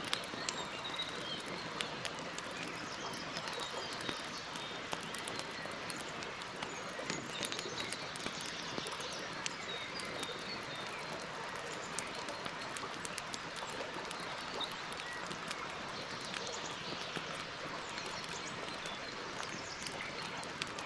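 Campfire burning wood, crackling: a steady hiss with frequent sharp pops and snaps, and small birds chirping faintly in the background.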